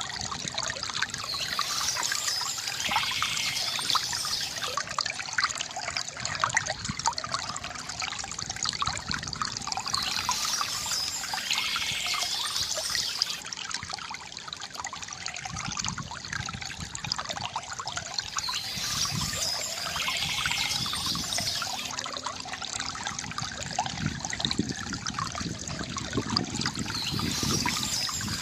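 A small stream trickling and babbling steadily over stones, with a brighter hissing layer that swells and fades about every nine seconds.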